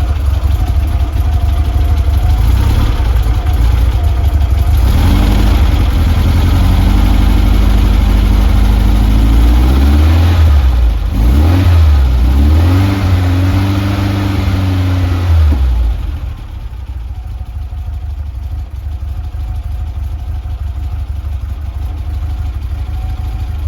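Air-cooled flat-four engine of a 1967 VW splitscreen bus idling, then revved up and down several times from about five seconds in before settling back to a quieter idle near the end. It runs on twin carburettors that the owner thinks need setting up again.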